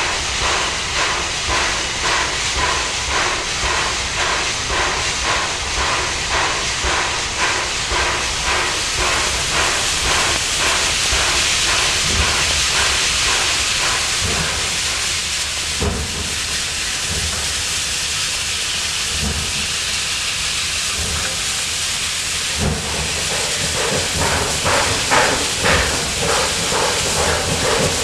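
Steam locomotive working: a regular beat of exhaust chuffs over steam hiss, giving way for a while to a steady hiss of escaping steam. The sound changes abruptly twice, and the rhythmic chuffing returns near the end.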